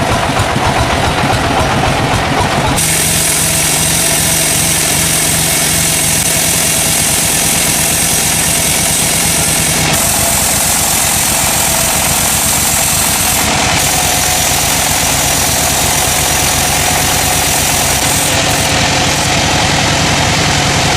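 Engine-driven sawmill machinery running loudly and steadily with a fast, even engine pulse. The sound changes abruptly at about 3, 10, 13.5 and 18.5 seconds.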